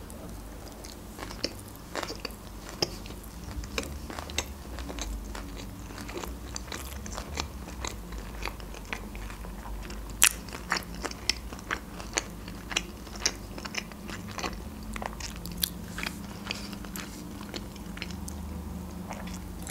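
Close-up chewing of a sushi roll: irregular wet mouth clicks and crunches, with one sharp click louder than the rest about halfway through.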